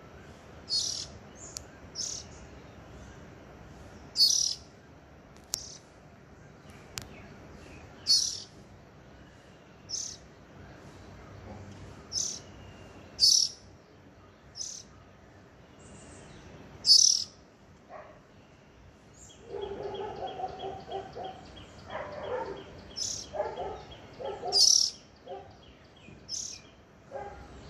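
Small bird chirping: short, sharp, high chirps repeated every second or two. About two-thirds of the way in, a lower, rapid run of notes sounds under the chirps for several seconds.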